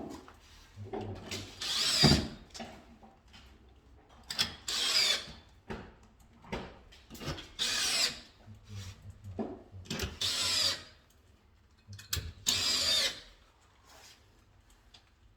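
Cordless drill-driver run in short bursts, about every two to three seconds, each burst rising and falling in pitch, with a few knocks between them: screws being driven one after another into the board.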